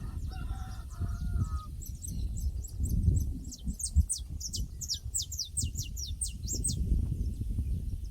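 Pasture ambience: a farm fowl's call, like a distant rooster crowing, at the start, then a small bird singing a quick series of high, falling notes, over a steady low rumble.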